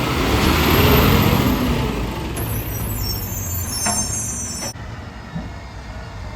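Garbage truck's diesel engine running and revving up and back down, then a hiss of air that cuts off suddenly, with a single knock near the middle.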